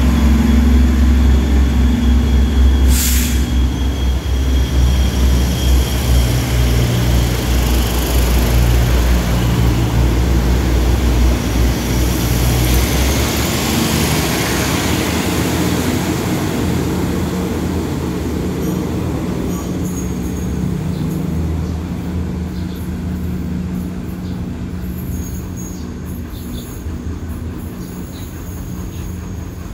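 Diesel railcar train pulling out and rolling past, its engine drone and wheel rumble strong at first and fading away as it leaves. A short, sharp hiss about three seconds in.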